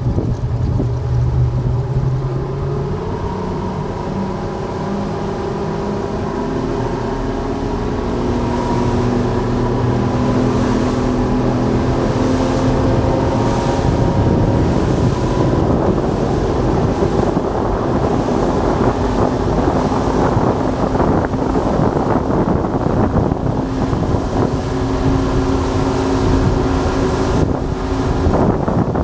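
Motorboat engine running steadily, its pitch drifting slowly up and down, with wind buffeting the microphone.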